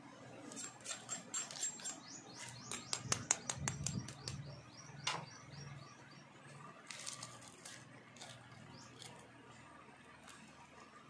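Small birds chirping, with a rapid run of sharp, clicking notes and short falling chirps in the first five seconds, then scattered calls, over a faint low hum.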